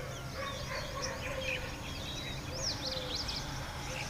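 Several small birds chirping and twittering, with many quick rising and falling notes, over a steady low hum.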